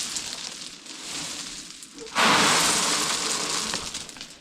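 Loose building aggregate being tipped and poured onto the ground, a rushing, gritty pour. One pour is fading out at the start, and a louder one comes in about two seconds in and dies away near the end.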